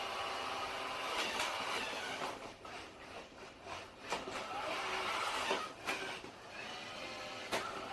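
Robot vacuum cleaner, an iRobot Roomba Combo j5, running with a steady motor whir that dips and rises in level. There are several short knocks, the loudest near the end.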